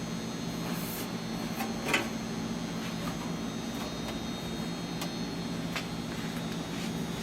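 Sheet metal being rolled back and forth under pressure through an English wheel to stretch its centre and raise the curve: a steady low rolling hum with a few light metallic ticks, the clearest about two seconds in.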